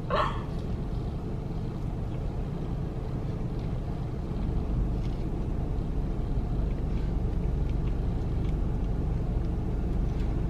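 Steady low vehicle rumble heard from inside a parked car's cabin, with a few faint clicks.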